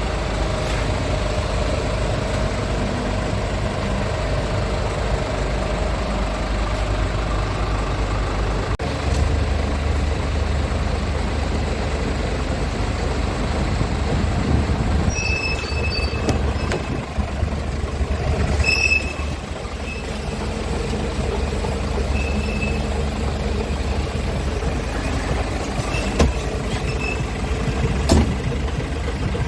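Scania S truck tractor's diesel engine idling steadily, with a few short high beeps and clicks about halfway through and near the end.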